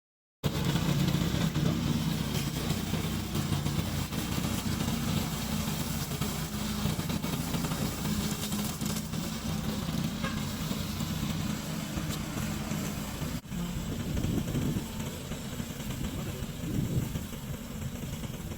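Small gasoline engine of a remote-controlled weed cutter running steadily, with one brief dip about two-thirds of the way through.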